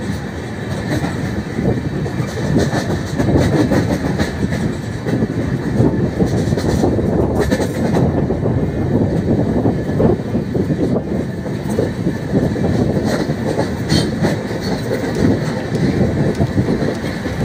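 Express train running at speed on LHB coaches, heard from the coach doorway: a steady rumble of wheels on rail with irregular clacking as the wheels pass over rail joints.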